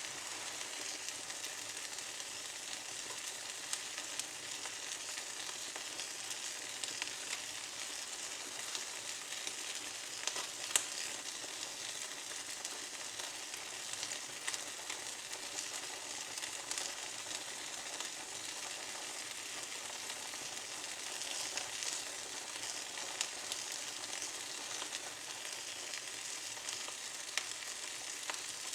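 Fire of small twigs burning in a fireplace: a steady hiss with many small crackles and pops, and one sharper crack about eleven seconds in.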